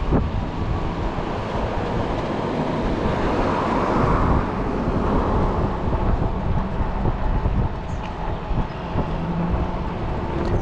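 Wind buffeting the microphone on a moving e-bike, a loud rushing rumble that swells for a couple of seconds about four seconds in.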